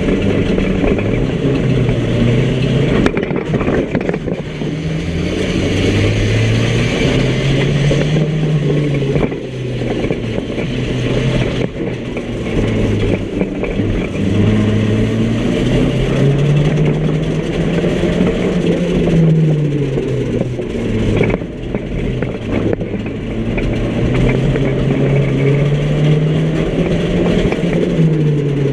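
Small banger-racing car's engine heard from inside its stripped cabin, revving up and easing off again and again, its note rising and falling every few seconds as it accelerates and lifts.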